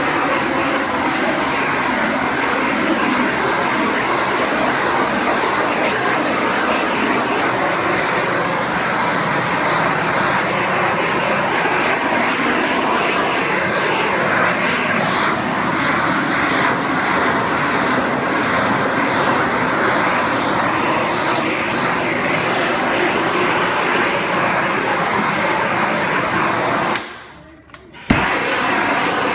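Propane shrink-wrap heat gun (18,000 BTU) burning steadily, a loud even rush of flame that cuts off suddenly near the end, followed by a single click.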